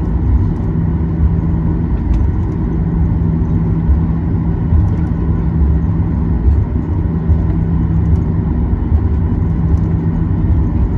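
Cabin noise of a Boeing 737-800 taxiing: a steady low rumble from its CFM56-7B engines at taxi power and the rolling gear, with a steady whine over it.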